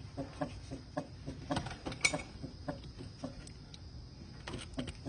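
Nissan Elgrand's accessory-belt tensioner making short, irregular chirps, two or three a second, while the belt is pressed by hand; the noise is the sign of a faulty tensioner.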